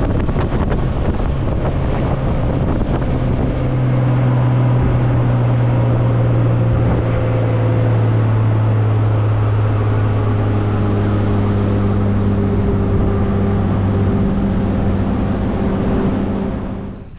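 Outboard engine of a Sportsman Masters 227 bay boat running at speed, loud and steady, with wind buffeting the microphone. It cuts off suddenly at the very end.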